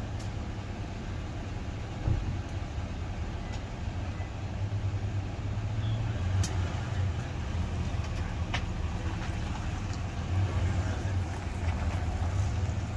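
Car engine idling with a steady low hum, broken by three short clicks.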